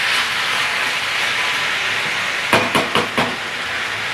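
Marinated chicken frying in a wok, a steady sizzle. A little past halfway come four quick knocks.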